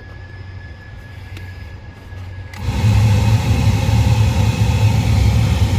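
A car heater blower fan, newly replaced in a 2014 Ford Fiesta, running with a low steady hum, then switched up about two and a half seconds in to a loud, steady rush of air.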